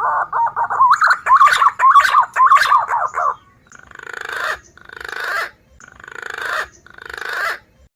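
Green pigeon (punai) call played as a bird lure: a warbling, whistled phrase for about three seconds, then four buzzy, pulsed notes about a second apart.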